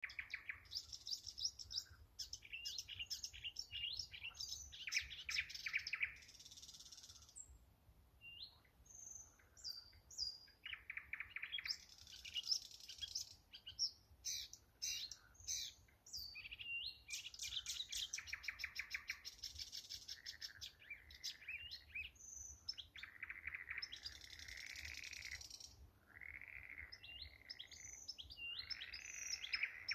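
Two thrush nightingales singing, their phrases of rapid repeated notes, clicks and whistles overlapping almost without a pause.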